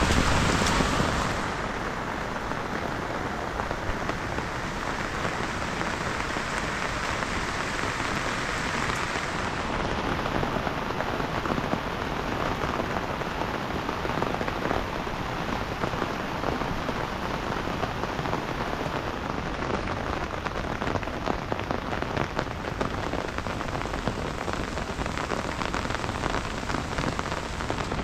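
Heavy rain falling steadily, a dense patter of drops, a little louder for the first second or so.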